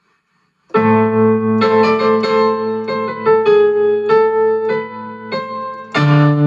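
Electronic keyboard music starting about three-quarters of a second in: a held bass note under a melody of separate notes, with a new, lower-sounding chord near the end.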